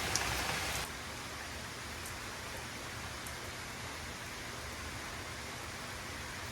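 Steady hiss like falling rain, with a few faint taps, dropping to a quieter level about a second in.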